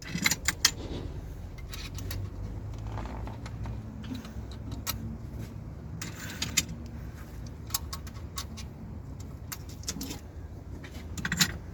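Irregular metal clinks and clicks as steel camshaft bearing caps and hand tools are handled and set down on a diesel cylinder head being stripped, over a steady low hum.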